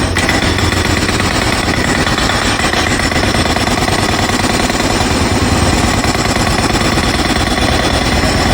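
Pneumatic jackhammer breaking up the ground, rattling in fast, continuous strikes.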